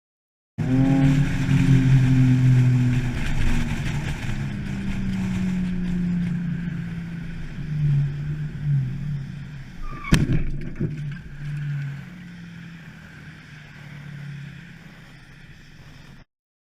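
A vehicle's engine and road noise, loudest at first and fading gradually. A single sharp bang comes about ten seconds in.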